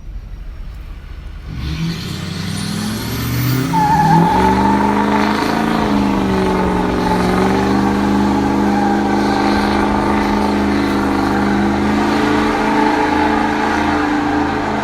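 Straight-piped 6.0 Powerstroke V8 diesel in a 2006 Ford F-350 revving up and held at high revs through a burnout, with a wavering tire squeal over it.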